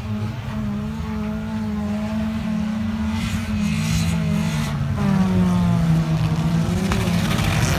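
Several wreck-race cars' engines running and revving on a dirt track, their pitch rising and falling as they accelerate. The sound grows louder about five seconds in as the pack comes closer.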